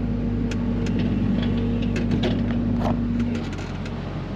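Mini excavator engine running steadily, with scattered light clicks and knocks, then dropping to a lower, quieter run about three seconds in as the throttle comes down.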